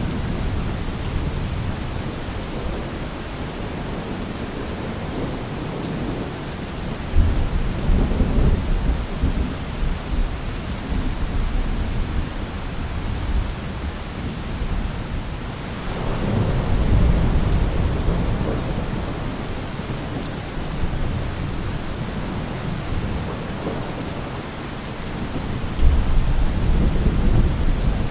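Thunderstorm: steady heavy rain with rolling thunder. Deep rumbles build three times, the first about seven seconds in, another just past halfway, and a sharp crack and roll near the end.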